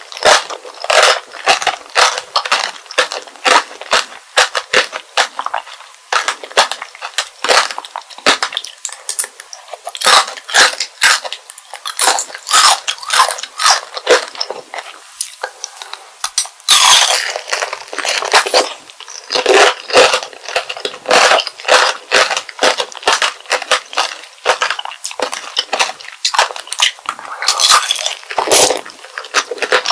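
Close-miked chewing of strawberry tanghulu: the hard sugar-glass coating cracking and crunching in the mouth, many sharp crunches in quick succession. Near the end, a fresh bite into a whole candied strawberry.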